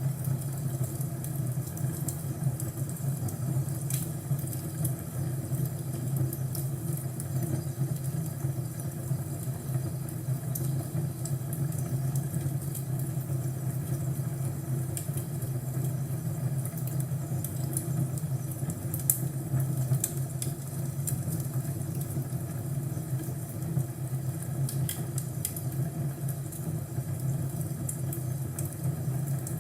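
Crackling fireplace: a steady low rumble of the fire with scattered sharp crackles and pops.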